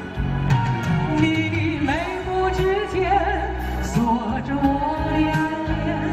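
Live concert music: a singer with band accompaniment over a steady bass line.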